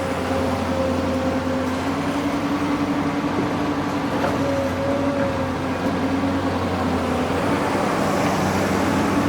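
Long-arm excavator's diesel engine running steadily under work, a low drone whose pitch wavers slightly.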